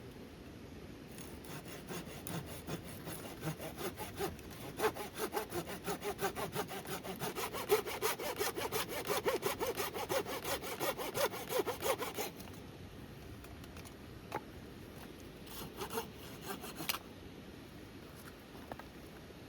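Hand saw cutting through firewood in quick, even back-and-forth strokes that grow louder, then stop; a few more strokes follow a few seconds later.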